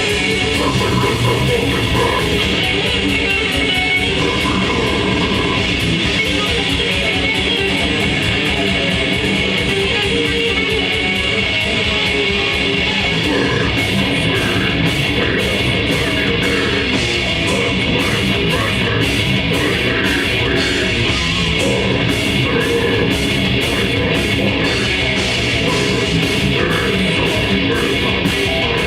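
Grindcore band playing live: heavily distorted guitars and bass over fast, continuous drumming, with cymbals crashing more clearly from about halfway through.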